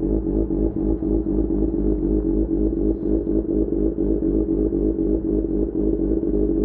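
SRK600 motorcycle's inline-four engine running at a steady pace through a Pure Austin Racing GP1R exhaust, with a steady drone and no revving up or down.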